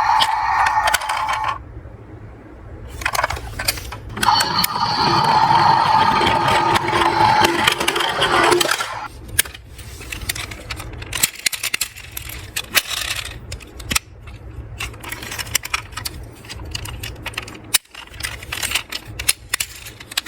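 Small metal die-cast toy cars clinking and rattling against each other and the slope, with many sharp clicks in quick succession through the second half. Earlier, a steady tone sounds at the start and again from about four to eight seconds.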